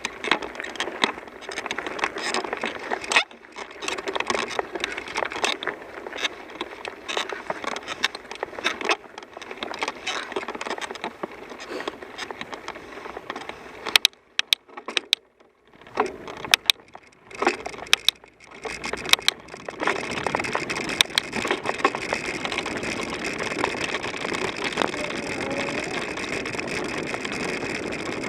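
Bicycle riding over a rough trail: tyres crunching with a dense run of small clicks and rattles. There are a few short quiet gaps with sharp clicks past the middle, then it turns to an even, steady rush.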